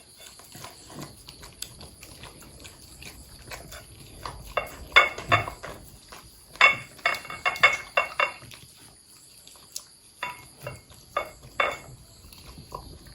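Corgis eating and licking at their bowls, with bursts of sharp clicks and clinks against the bowls between quieter stretches.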